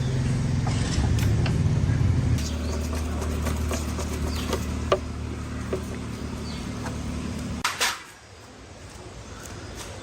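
Motorbike engine running, settling from a faster speed to a lower idle about two and a half seconds in, then switched off near the end, with a few light clicks.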